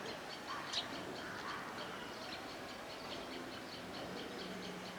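Outdoor nature ambience: a steady run of short high chirps, about six a second, with a sharper call about a second in. A faint low steady tone comes in near the end.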